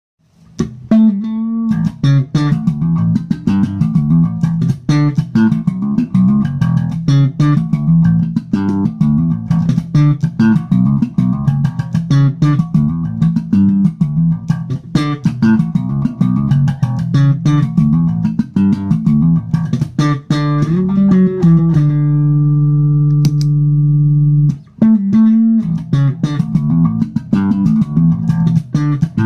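Electric bass guitar playing a fast bass line with many sharp, percussive note attacks, starting about half a second in. About three-quarters of the way through, one low note is held for about three seconds before the line picks up again.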